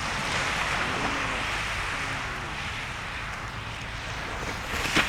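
Steady rushing of wind and surf on the shore, swelling at the start and slowly easing off, with one sharp crack near the end.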